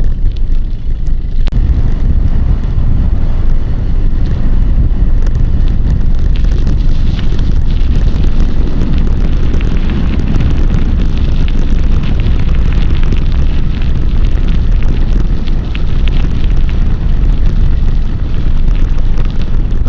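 Heavy wind buffeting on the camera microphone while cycling, a loud, dense rumble with no speech that picks up about a second and a half in.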